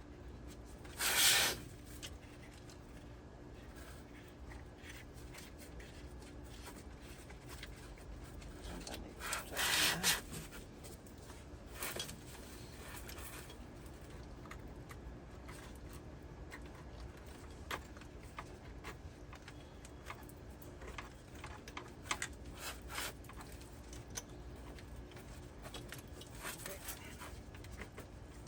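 Hand work on a pool pump motor: rubbing and scraping of parts and tools, with scattered small clicks. There are two louder scrapes, a short one about a second in and a longer one around nine to ten seconds in.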